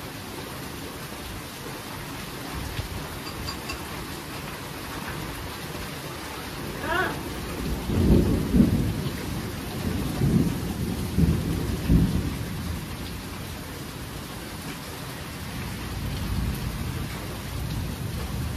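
Steady heavy rain with a thunderclap: a sharp crackle about seven seconds in, followed by several seconds of low rolling rumbles that die away about halfway through.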